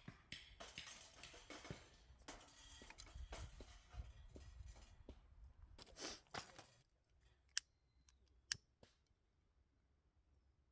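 Faint rustling and handling noises for about seven seconds, then two sharp clicks about a second apart.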